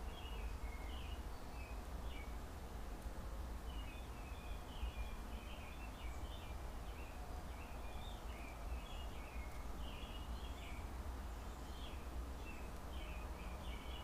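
Faint bird chirping: a continual run of short, high twittering calls over a low, steady hum.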